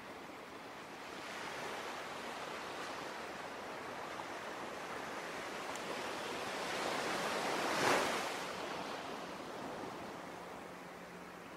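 Ocean surf: a wave builds over several seconds, breaks loudest about eight seconds in, then washes back and fades.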